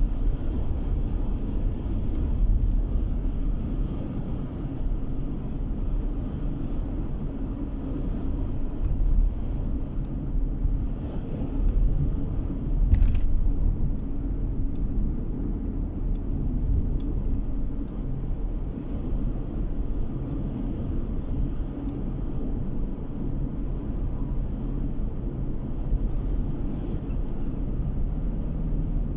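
Steady road and engine noise of a car driving, heard from inside the cabin: a continuous low rumble. One short sharp click comes about 13 seconds in.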